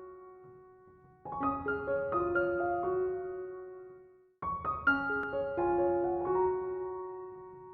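Soft background music: a piano plays a slow, gentle melody in short phrases of a few notes, each fading away before the next begins, about a second in and again just past halfway.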